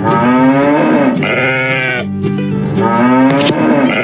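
Two long, drawn-out livestock calls, the second coming about two and a half seconds after the first, over background music.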